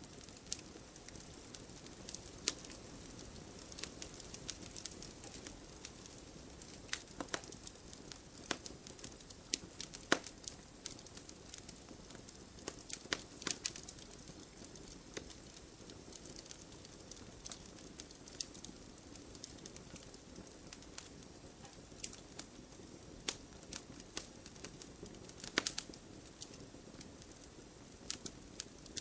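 Wood fire burning, with a steady low hiss and irregular crackles and sharp pops from the burning wood, a few pops standing out louder.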